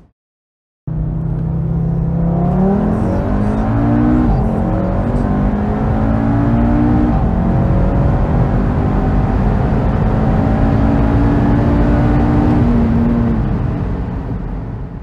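Audi 2.5 TFSI five-cylinder engine with a hybrid turbo pulling hard under full throttle, heard from inside the cabin. Its note climbs with rising speed from about 100 to 200 km/h and drops back at the upshifts, then fades out near the end after a second of silence at the start.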